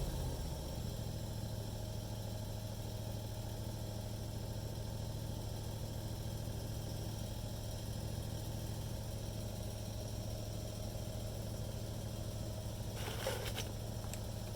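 A steady low mechanical hum, with a few brief clicks or rustles near the end.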